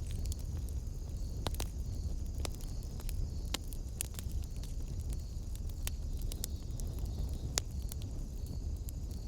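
Wood fire burning in a fireplace: a steady low rumble with scattered sharp crackles and pops, the strongest pop about seven and a half seconds in.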